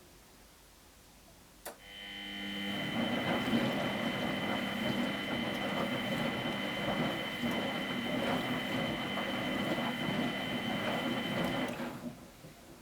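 Miele Professional WS 5426 washing machine during a boil wash: a click about two seconds in, then about ten seconds of steady machine noise with a low hum and two high whistling tones, cutting off near the end.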